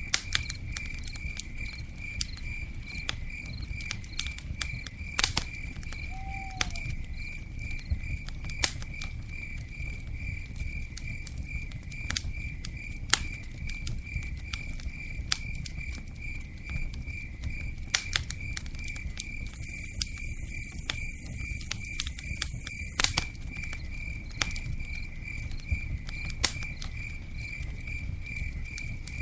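Campfire burning with a low rumble and frequent sharp crackles and pops, under a cricket chirping in a steady pulsing rhythm. A brief high hiss comes in about twenty seconds in and cuts off about three seconds later with a pop.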